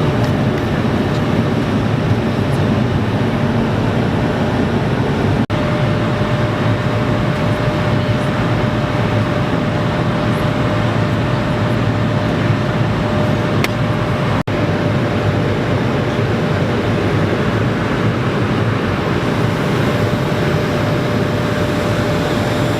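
Airbus A220-300 cabin noise in cruise: a steady rush of airflow and the drone of its Pratt & Whitney geared turbofan engines, with a faint steady hum above it. The sound cuts out for an instant twice.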